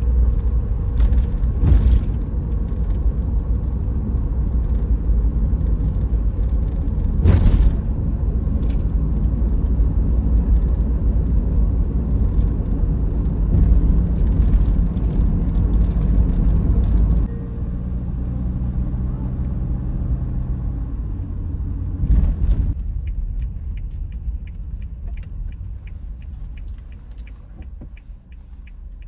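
Van driving, heard from inside the cabin: a steady low road and engine rumble that eases off about two-thirds of the way through as the van slows, with the engine running at low speed. A knock follows, then the sound fades with faint regular ticking.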